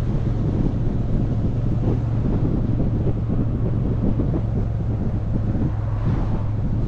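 Motorcycle engine running steadily while riding, under heavy wind noise buffeting the microphone. A short swell of hiss comes near the end.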